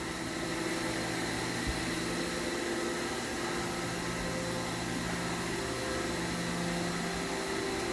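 Steady hum of a powered-up CNC horizontal machining center standing idle, with a few steady tones over an even mechanical hiss, typical of its pumps and cooling fans running.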